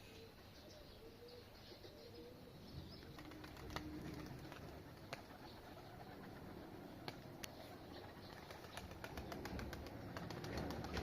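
Domestic pigeons cooing softly in low wavering tones, with scattered sharp clicks that build into a quick run near the end.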